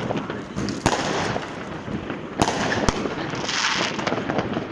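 Street fireworks going off all around: a dense crackle of firecrackers with sharp single bangs about a second in and twice more between two and three seconds, and a brief hiss near the end.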